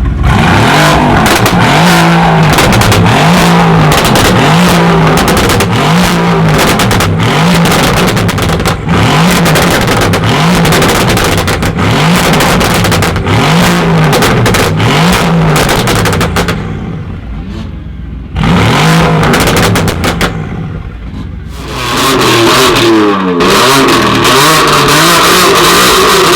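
A tuned car engine and exhaust revved again and again in quick blips, about one every second and a half, with sharp crackles. After two short lulls the engine is held at high revs near the end.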